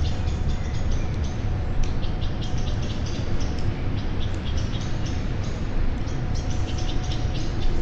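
Birds chirping in quick, short, high calls, many in rapid succession, over a steady low rumble.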